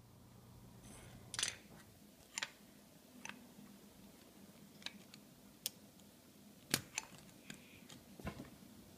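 Small plastic Lego pieces being handled: a handful of faint, separate clicks and taps spread a second or so apart.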